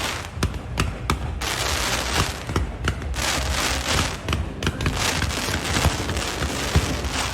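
Fireworks going off: many sharp bangs and crackles in quick succession, over hissing that swells and fades every second or so.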